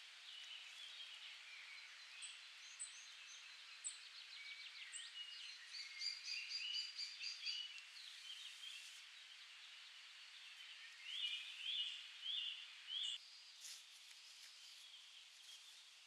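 Songbirds singing and calling over a faint steady hiss, with a busy stretch of trills about six seconds in and a run of short repeated phrases near the two-thirds mark.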